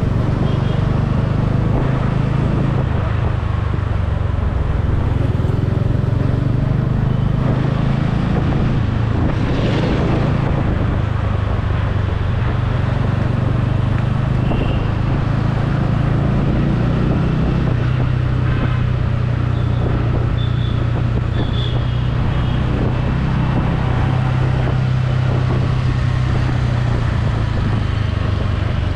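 Motorcycle engine running at a steady pace on the move, with wind and road noise.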